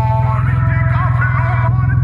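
Can-Am Ryker three-wheeler's engine running steadily while riding, with music with a singing voice playing over it.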